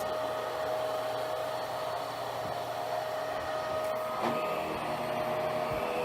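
Hoover Power Drive Pet vacuum cleaner running steadily with a constant motor whine, with one short knock about four seconds in.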